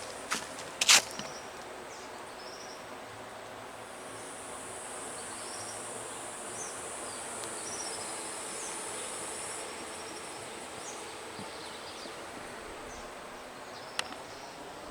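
Jungle ambience: steady high-pitched insect buzzing, with scattered short chirps. A few sharp clicks come about a second in and again near the end.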